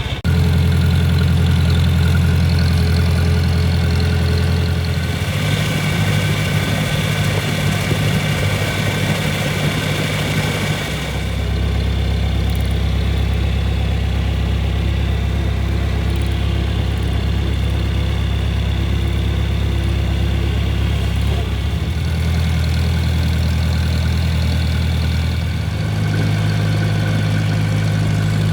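Farm tractor engine running steadily while under way, its pitch stepping up and down several times as the speed changes.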